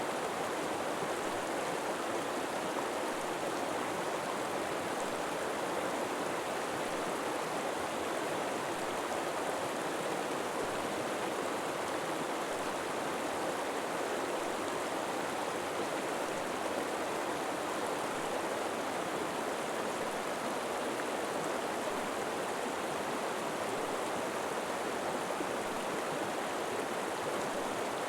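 River water flowing steadily over rocks in a continuous, even rush.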